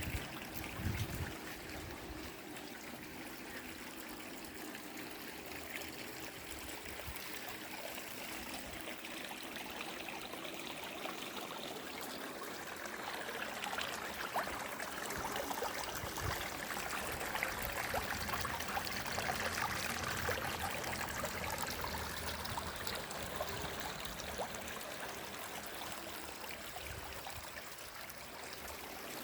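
Rainwater running in a small stream or runoff channel after rain, a steady trickling and babbling flow that grows a little louder midway. A brief low bump about a second in.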